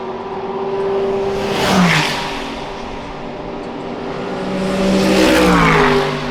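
GT3 race cars passing at speed, two close pass-bys about four seconds apart, each engine note dropping in pitch as the car goes by, over the steady engine sound of other cars on track.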